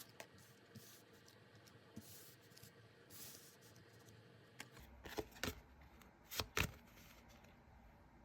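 Tarot cards being handled: a soft sliding rustle, then a cluster of sharp card taps and flicks a little past the middle.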